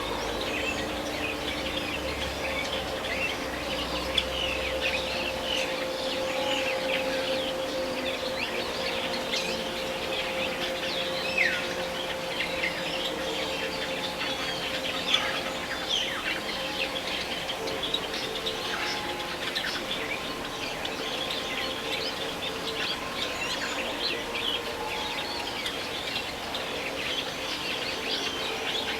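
Many small birds chirping and twittering together, a dense run of short high chirps and quick whistled glides, over a steady low hum.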